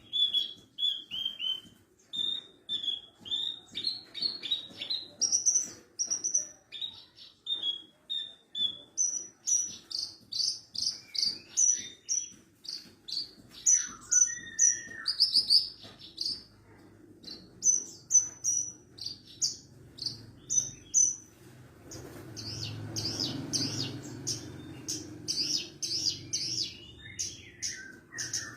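Horsfield's bush lark (branjangan, subspecies parva) singing: a fast, unbroken run of short high chirps, trills and repeated notes. A low rumbling noise sits under the song for a few seconds near the end.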